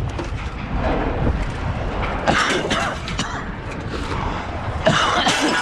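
Scrap metal clattering as pieces are thrown off a truck onto a pile, in two brief bursts, over a steady low rumble.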